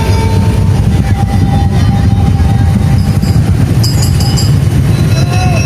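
A percussion ensemble of tongtong and daul drums playing loudly, heard as a dense, steady low rumble with no break.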